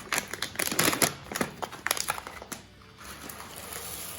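Bird seed rattling into a plastic milk bottle in a quick run of clicks for about two and a half seconds, then a softer hiss. Music plays alongside.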